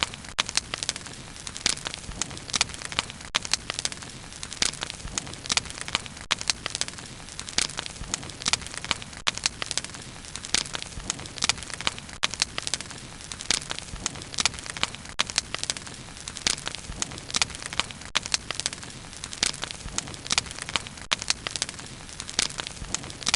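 Bonfire burning with constant irregular crackling and popping of burning wood over a steady low rush of flame.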